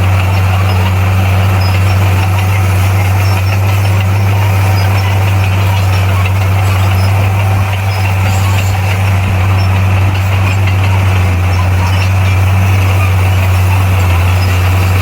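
Bulldozer's diesel engine running at a steady speed with a deep, even hum.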